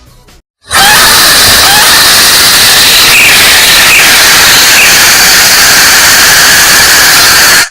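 Extremely loud static-like noise hiss at full volume, starting sharply about half a second in after a brief silence, with a few faint squeaks inside it, and cutting off abruptly at the end.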